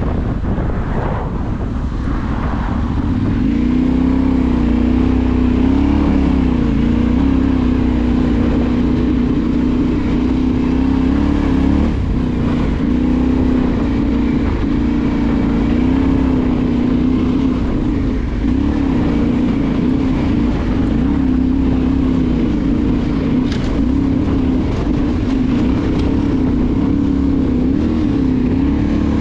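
Off-road motorcycle engine running continuously while riding, its pitch rising and falling with the throttle.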